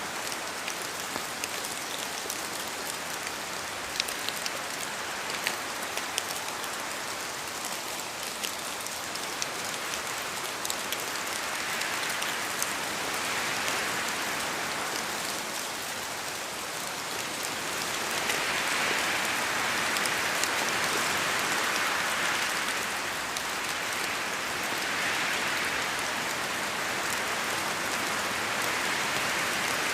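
Steady rain falling, with sharp individual drops ticking on a surface in the first half; the downpour swells a little heavier in the second half.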